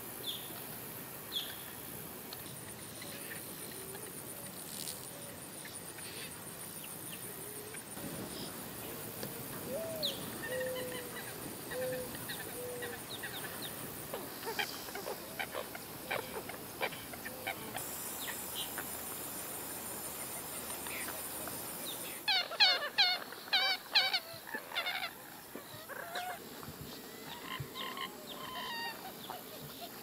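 Birds calling in a wetland: scattered short calls, a few low gliding calls about ten seconds in, and a loud, rapid series of sharp calls about 22 seconds in that lasts around three seconds. A thin, high, steady buzz runs through the first half.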